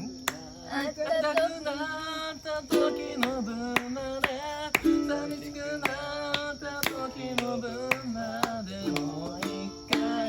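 Ukulele strummed in chords with a voice singing a melody over it.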